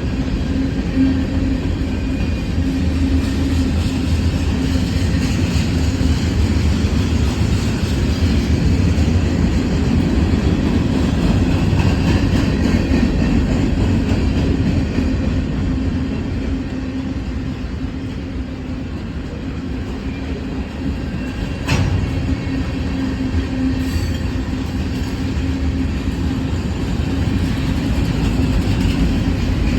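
Freight train cars rolling past close by: a steady rumble and hum of wheels on rail, with a single sharp clank about two-thirds of the way through.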